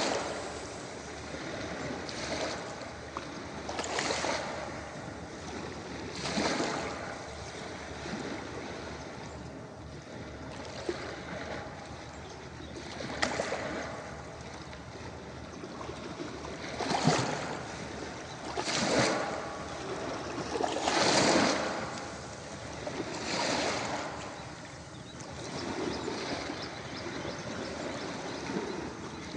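Ocean waves breaking and washing up a beach: a steady hiss of surf that swells into a louder surge every few seconds, the biggest in a run of three near the middle.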